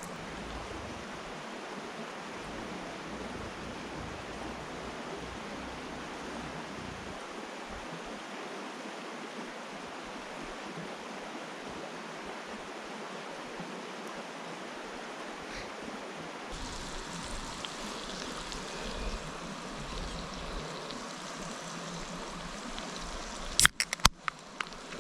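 Steady rush of a flowing river, growing brighter about two-thirds of the way in. A quick run of sharp knocks or clacks sounds shortly before the end.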